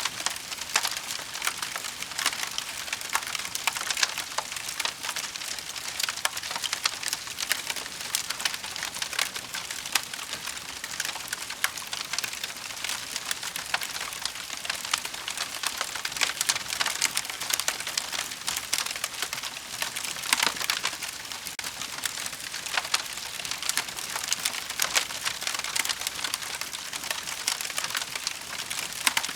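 Wood fire burning in a fireplace, crackling and popping continuously over a soft hiss, with many sharp pops scattered through.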